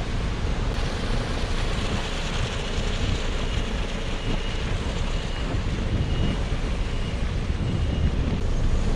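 Steady wind rumble and road noise while riding a bike along a rough road, with faint short high chirps in the middle.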